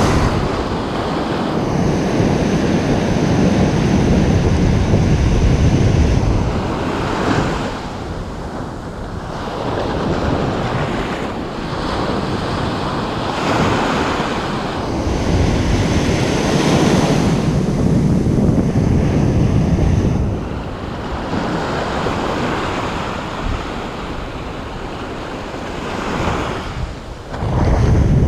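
Ocean surf: waves breaking and washing up one after another, the rush rising and falling every few seconds, with wind buffeting the microphone.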